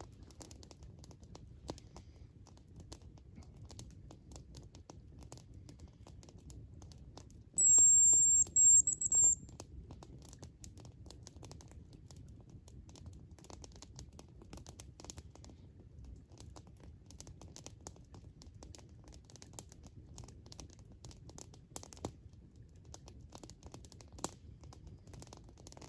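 A high, thin hazel grouse whistle about eight seconds in: one longer note followed by two short ones, all over in under two seconds. Faint scattered crackles and ticks sound over a low hum before and after it.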